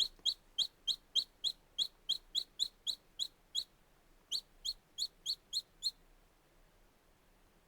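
A bird calling a rapid series of short, sharp, high notes, about three a second, with one brief break partway through; the calling stops about six seconds in.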